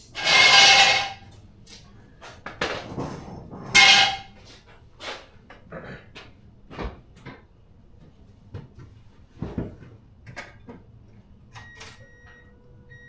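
Garage work noise around a car: two loud hissing bursts about a second long, one at the start and one about four seconds in, among scattered knocks and clicks. Near the end a faint electronic beep repeats.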